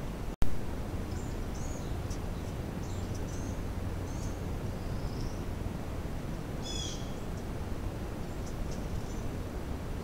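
Small birds chirping now and then at a backyard feeder, with one louder call about seven seconds in, over a steady low background rumble. A brief dropout and click near the start.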